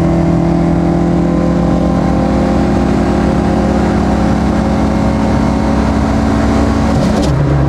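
Tofaş car's engine running hard at highway speed, heard from inside the cabin, its note slowly climbing as the car accelerates. About seven seconds in there is a brief click and the pitch drops sharply as the car shifts up a gear.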